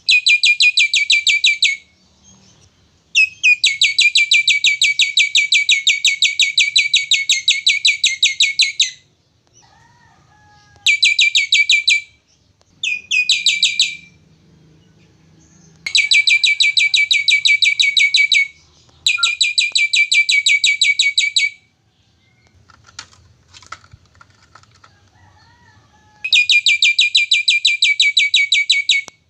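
Jalak (Indonesian starling) calling in loud bursts of rapid, evenly repeated high notes, seven bursts of one to six seconds each with short gaps, fainter softer calls between them.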